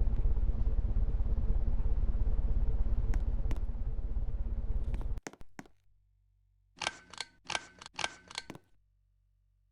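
Wobbling ceiling fan running with a steady low rumble and faint hum, with a couple of light clicks; it cuts off suddenly about five seconds in. Near the end come a few short clicking, rustling bursts of handling noise.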